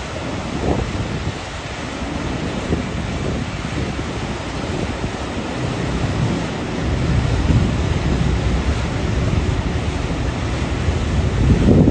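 Waterfall rushing steadily, with wind buffeting the microphone in low gusts that grow stronger in the second half.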